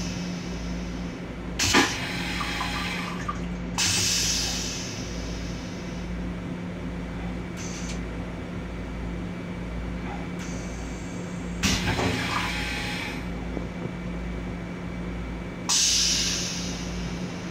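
Steady low hum of a moving M7 railcar's restroom, with a sharp click about two seconds in and three short rushes of water through the restroom plumbing, each fading away over about a second.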